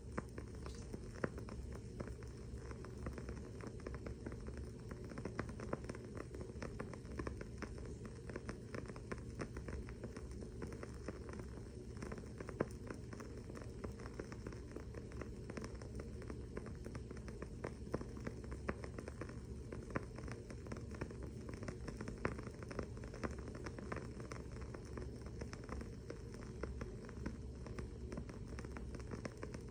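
Wooden-wick candle crackling: a dense, irregular stream of small clicks and snaps, with a few louder pops, about a second in and near the middle.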